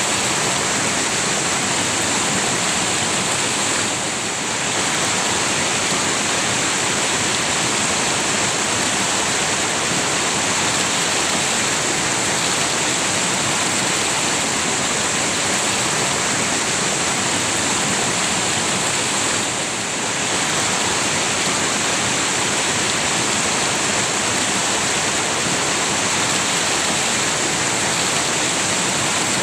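Water of a river rushing steadily, a dense even hiss with no pauses, dipping slightly for a moment about four seconds in and again near twenty seconds.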